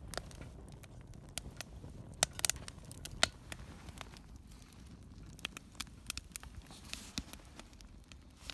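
Swedish torch log fire crackling, with irregular sharp pops and clicks, a few louder ones a little over two seconds in and about three seconds in.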